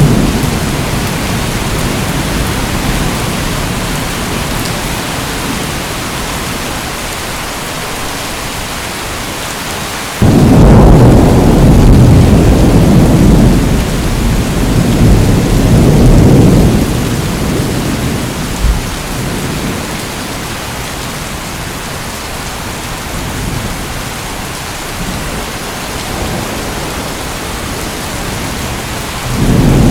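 Steady heavy rain with thunder: a low rolling rumble starts suddenly about a third of the way in and dies away over several seconds, and another begins right at the end.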